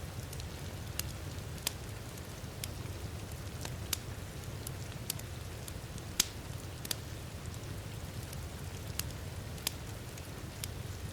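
Wood fire crackling in a fireplace, with irregular sharp pops about once a second, the loudest about six seconds in, over a steady low wash of heavy rain.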